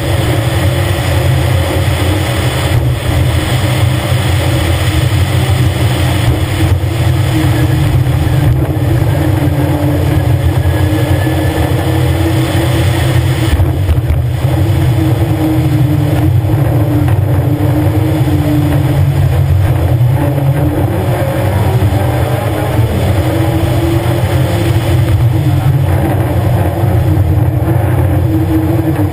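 Škoda 130 LR rally car's rear-mounted four-cylinder engine running hard under load at speed, with brief dips in the engine note every few seconds as the driver lifts and shifts.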